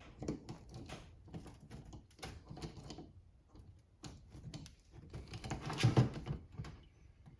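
Irregular metal clicks, scrapes and light taps of hand tools working at the cage of an old differential carrier bearing to break it away, with a louder run of scraping about six seconds in.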